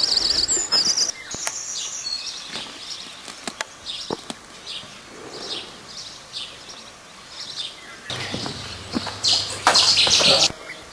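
Small birds chirping again and again, high and short, with a few scattered sharp clicks. About eight seconds in, a louder rushing noise with a low hum takes over for a couple of seconds, then cuts off.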